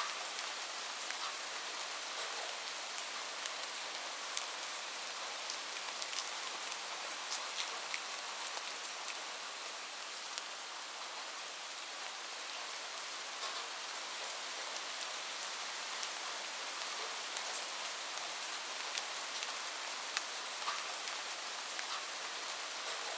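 Steady rain falling on a roof: a dense, even hiss with many scattered sharp taps of single drops.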